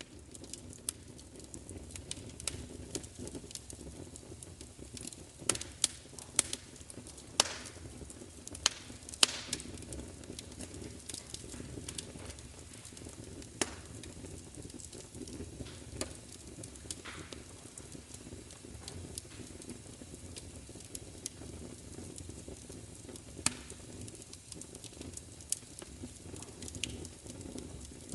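Fire crackling: irregular sharp pops and snaps over a steady low rush, with a run of louder pops partway through.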